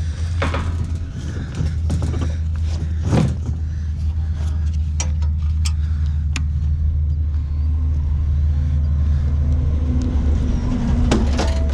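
Heavy truck diesel engine running steadily, with sharp metallic clicks and knocks scattered over it. A steady whine starts near the end.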